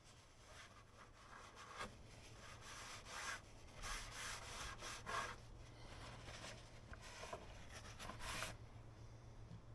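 Irregular rubbing and rustling as oil filter parts are handled, with a few louder scrapes in the middle and near the end, over a faint steady low hum.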